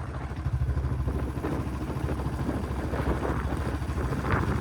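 Royal Enfield Bullet's single-cylinder engine running under way, its exhaust beating in a fast, even low thump.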